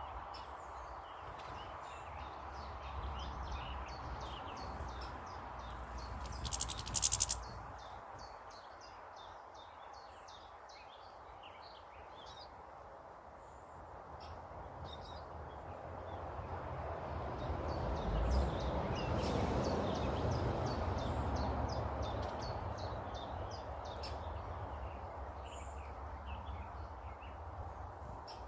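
Small garden birds chirping in quick short notes throughout, over a steady low background noise. A brief loud rustling burst comes about seven seconds in, and a broad rumble swells up and fades away again in the second half.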